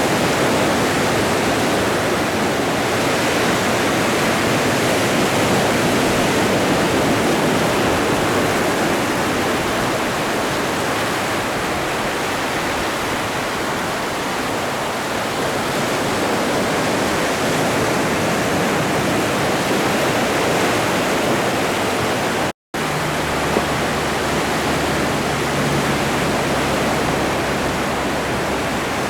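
Atlantic ocean surf: a steady wash of breaking waves. The sound cuts out completely for a split second about three-quarters of the way through.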